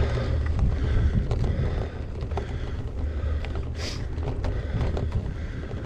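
Wind buffeting the action camera's microphone while a gravel bike rides over rough ground, with many small rattles and knocks from the bike. There is a brief hiss about four seconds in.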